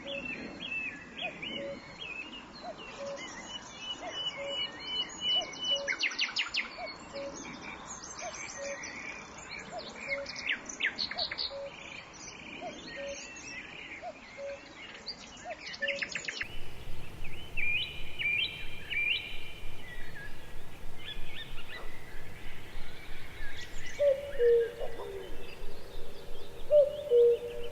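Birds chirping and calling. For the first half, a short low note repeats steadily about every three-quarters of a second under the chirps. The sound changes abruptly about 16 s in, and louder low whistled calls come near the end.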